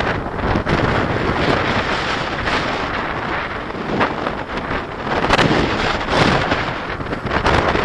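Wind buffeting the microphone in uneven gusts, a loud rushing rumble that swells and eases.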